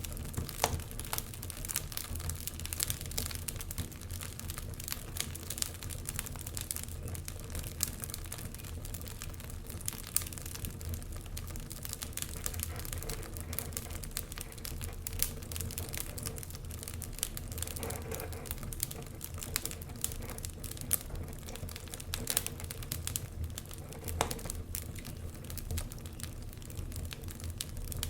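Wood fire burning in a fireplace: many small irregular crackles and pops over a steady low rumble of the flames.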